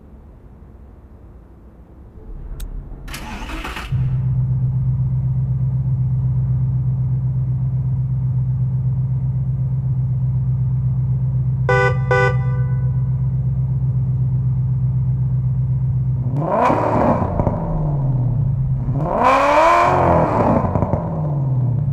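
A muscle car's engine cranks and fires about three seconds in, then settles into a steady idle. Near the end it is revved twice, the pitch rising and falling each time.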